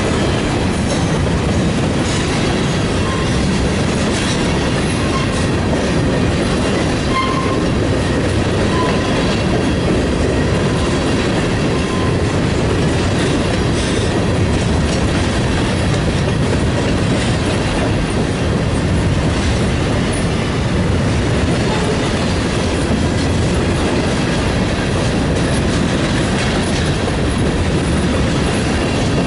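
Empty covered hopper cars of a CSX freight train rolling past: steady noise of steel wheels on rail, with a few short, faint wheel squeals in the first half.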